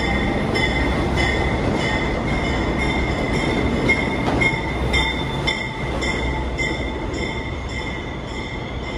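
Diesel work locomotive running as it hauls a set of R211 subway cars through the station, its engine rumbling under the steady rolling of steel wheels on the rails. A high ringing tone pulses evenly about one and a half times a second.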